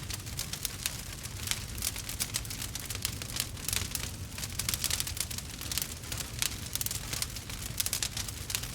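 Burning wood fire crackling and popping: a dense, steady stream of small crackles, many a second, over a low rumble.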